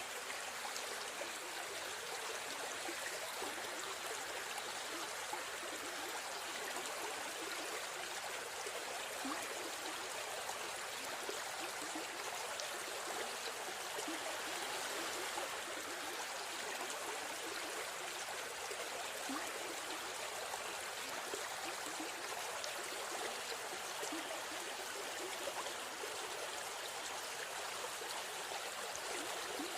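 A river stream flowing steadily, a continuous rush and babble of water.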